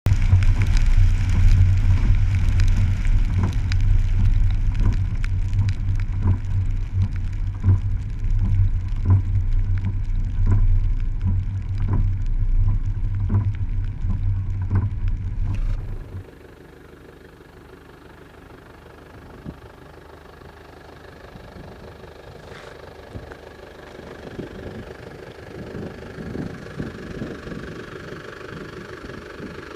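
Mitsubishi Delica running on a rainy drive: a loud low rumble with a regular knock about every 0.7 s, then after an abrupt cut about halfway, a much quieter steady engine sound with a faint patter.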